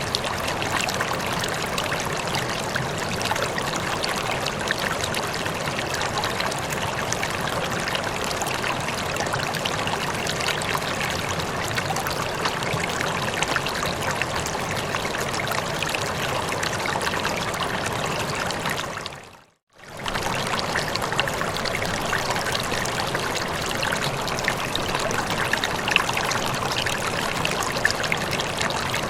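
Running water, a steady splashing flow like a stream or small cascade. About two-thirds of the way through it fades briefly to silence and then comes straight back.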